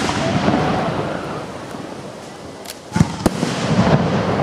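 Aerial firework shells bursting: a long rolling echo from a burst just before, then two sharp bangs close together about three seconds in, each followed by a rumbling echo.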